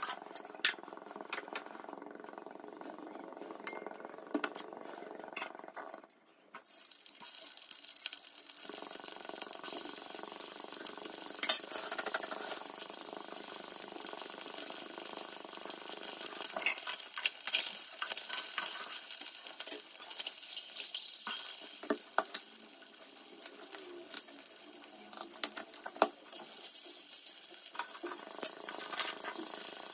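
Peeled boiled eggs frying in hot oil in a kadai: a steady crackling sizzle that starts about six seconds in, after a brief drop-out. Before that, the oil heating more quietly, with a few clinks of a steel ladle against the pan.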